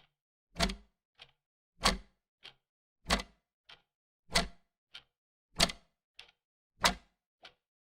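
Clock ticking steadily, alternating a louder tick and a fainter tock a little over half a second apart.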